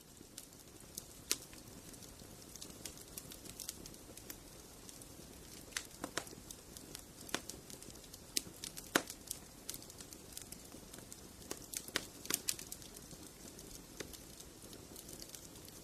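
Fireplace fire crackling: irregular sharp pops and snaps over a low steady hiss of the flames, the loudest pop about nine seconds in.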